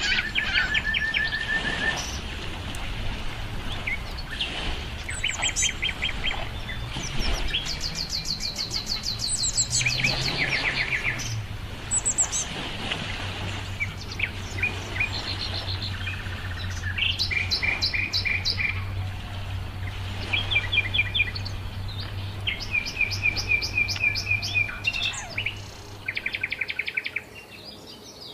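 Several songbirds singing and chirping, with overlapping trills of quickly repeated high notes. A faint low steady hum runs underneath.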